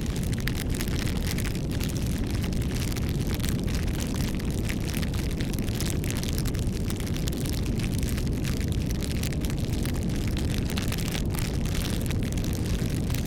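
Wood fire burning: a steady low rush of flame with many small crackles and pops scattered throughout.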